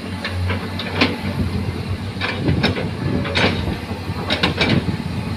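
A heavy truck engine running with a steady low hum, with irregular clanks and rattles over it.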